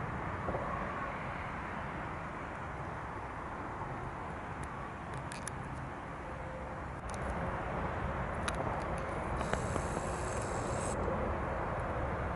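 Low rumble of a train approaching, getting louder about seven seconds in, with a brief hiss and a few clicks near the end.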